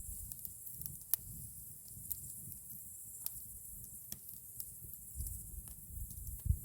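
Campfire crackling: irregular sharp pops and snaps of burning wood, one louder pop about a second in, over a low rumble that swells near the end.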